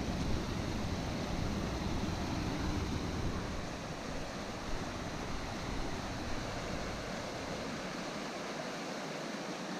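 Steady rushing of river water tumbling over a small waterfall. A low rumble under it in the first half dies away after about five seconds.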